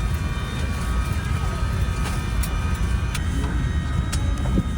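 Airbus A380 cabin at the gate: a steady low rumble of the air-conditioning with a faint high whine over it. A few light clicks and knocks come near the end.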